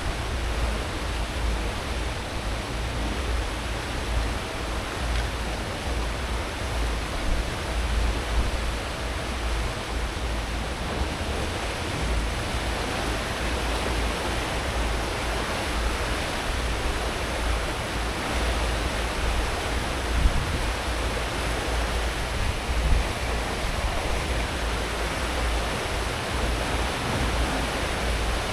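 Cruise ship's wake churning and rushing behind the stern at full speed: a steady wash of water noise over a low rumble from the ship's engines and propellers.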